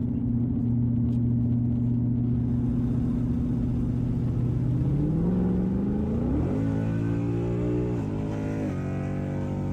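2018 Ford Mustang GT's 5.0 Coyote V8 through an MBRP race catback exhaust, heard from inside the cabin: it cruises at a steady hum, then the revs climb about five seconds in as he gets on the throttle. The pitch then drops in steps as the ten-speed automatic shifts up.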